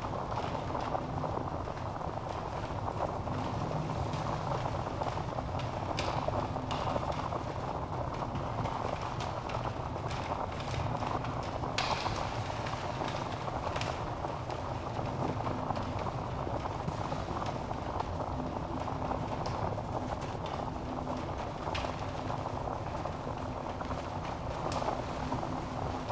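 Wood fire burning in a fireplace: a steady low rush of flame with scattered sharp crackles and pops from the logs.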